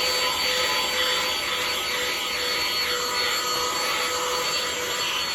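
Vacuum cleaner motor running steadily with a constant high whine, used to vacuum out a car.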